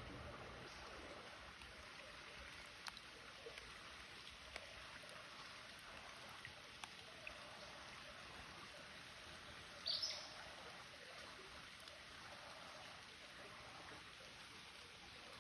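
Faint, steady trickle of creek water, with a few light clicks and one short high chirp about ten seconds in.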